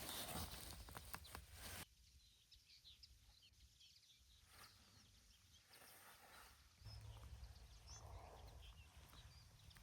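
Near silence: faint outdoor ambience with scattered short, high chirps, after a brief patch of rustling and sharp clicks in the first two seconds.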